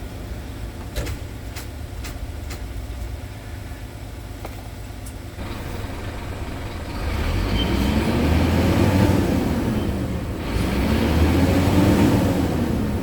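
Scania P truck's diesel engine idling, with a few sharp clicks early on, then revved up and let fall back twice.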